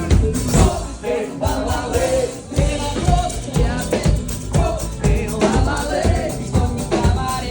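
Cover band playing pop music live, with a voice singing over a steady drum beat.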